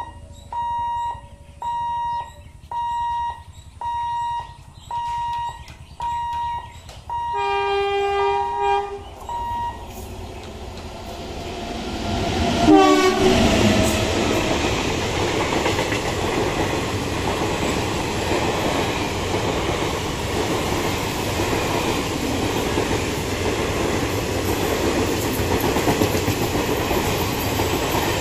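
A warning buzzer beeps about once a second. Then an express train's electric locomotive sounds its horn twice, the second blast loudest and bending down in pitch as it passes. The coaches follow with a steady rolling rumble of wheels on rail.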